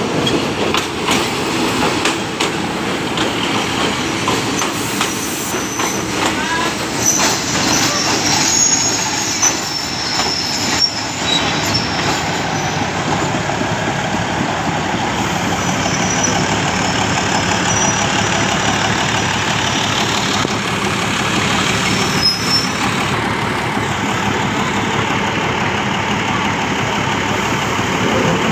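Diesel-hauled passenger train pulling into a station: the engine passes, then the coaches roll by with their wheels clicking over the rail joints. Brief high squeals come from the braking wheels, and the clicking thins out as the train slows to a stop.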